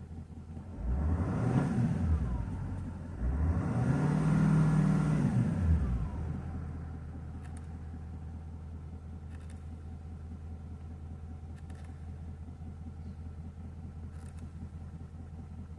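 2017 Nissan Titan XD's 5.0-litre Cummins V8 turbodiesel warming up after a cold start. It is revved twice, first briefly about a second in, then again a few seconds in, with the second rev held for a couple of seconds. It then drops back to a steady idle.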